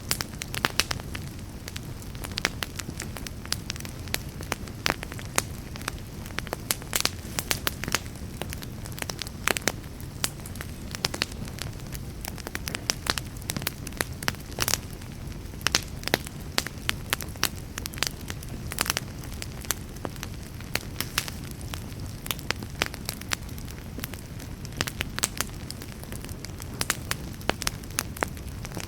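Fireplace fire burning steadily, with a low rumble under constant irregular crackles and pops of burning wood.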